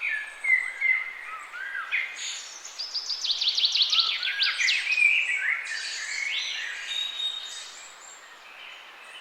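Several songbirds singing and calling over each other above a soft steady hiss, with a fast run of quick downward-slurred notes in the middle.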